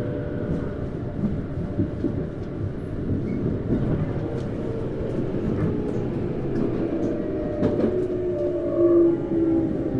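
Tokyu 9000 series electric train running, heard from inside a motor car: steady wheel-on-rail rumble with scattered clicks from the track. Over it sit the steady tones of its Hitachi GTO-VVVF traction inverter and motors, with a lower tone coming in near the end.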